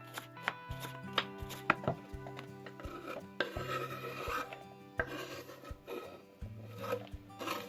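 Knife chopping on a cutting board in irregular strokes, with a short scraping stretch midway, over background music of held notes.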